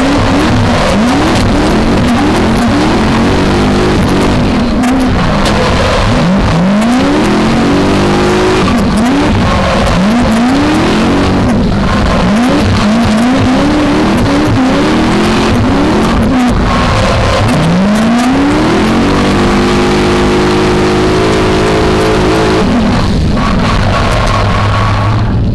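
V8 engine of a BMW E30 drift car revving hard, its pitch sweeping up and down over and over as the throttle is worked through a drift. About two-thirds of the way in the revs hold steady for a few seconds, then settle lower near the end.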